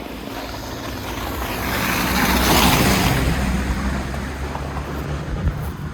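A motor vehicle drives past: its engine hum and road noise grow louder to a peak about two and a half seconds in, then fade away.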